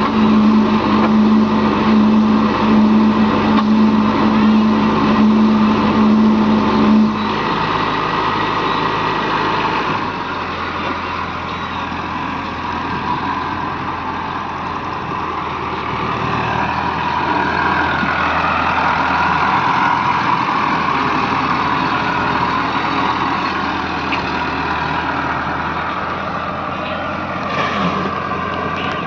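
Heavy diesel engines of earthmoving and farm machinery running. A strong steady engine note drops away about seven seconds in, and the engine sound settles lower, shifting again a few seconds later.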